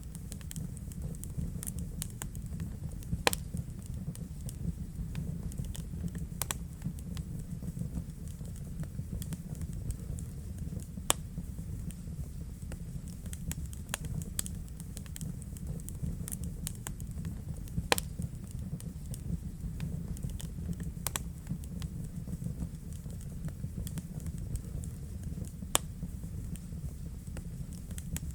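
Wood fire burning in a fireplace: a steady low rush of flame under frequent small crackles, with a few louder pops spread through.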